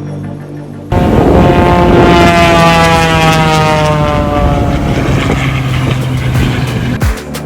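Aircraft flying past, its engine coming in suddenly about a second in and dropping steadily in pitch as it goes by. Near the end, music with thumping bass strokes comes in.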